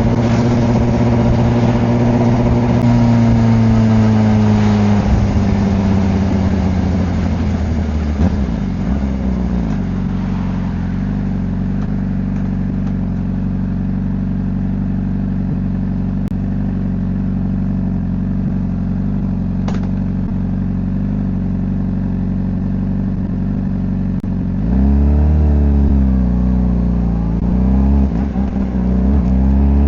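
Honda CBR600RR's four-cylinder engine under way. Its pitch falls over the first few seconds as it slows, then holds a long steady low note. About 25 s in it revs up and down in a few quick rises and falls.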